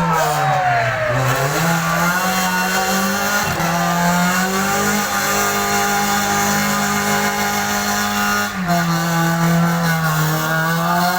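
Racing car engines at high revs, their pitch dipping and rising as cars go past.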